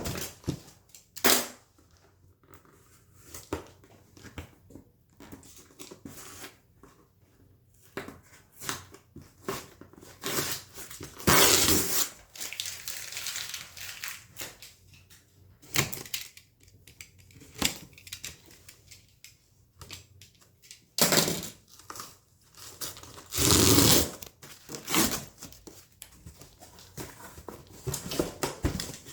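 Intermittent household handling sounds in a small room: rustling and crinkling, like packaging being torn or crumpled, with scattered light knocks and clicks. There are two longer noisy stretches, one about a third of the way in and one near the end.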